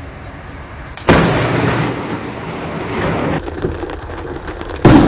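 Thunderclap from a close lightning strike: a sudden sharp crack about a second in, then rumbling that fades over the next few seconds, with another loud burst near the end.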